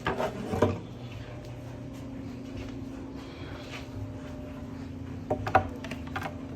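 Handling knocks and rubbing as a menu board is carried and hung on a wall, with a few knocks right at the start and the sharpest knock about five and a half seconds in. A steady low hum runs underneath.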